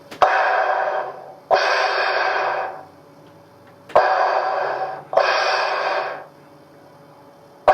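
Darth Vader-style mechanical breathing: two slow in-and-out breath cycles, each breath a loud hiss of about a second that starts abruptly, with a pause between the pairs.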